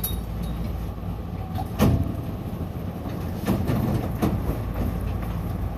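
Hankyu local commuter train arriving at a station, with a steady low hum and a loud thud about two seconds in, then a couple of softer knocks.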